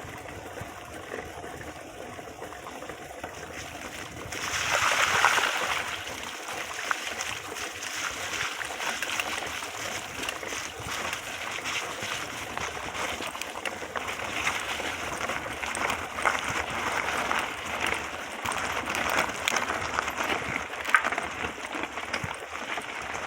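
Running water of a stream or small waterfall: a steady rushing and trickling that swells briefly about five seconds in.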